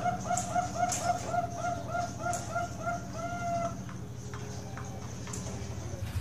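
Zebra dove cooing: a rapid run of short, evenly spaced notes, about five a second, ending in one longer held note about three and a half seconds in. A steady low hum and a few sharp clicks sound underneath.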